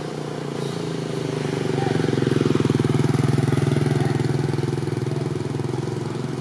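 A motor vehicle's engine passing by, its rapid pulsing growing louder toward the middle and then easing off.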